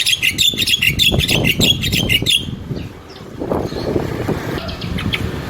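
A songbird singing a fast run of repeated high chirps, about four to five a second, that stops about two and a half seconds in. A few fainter chirps follow near the end.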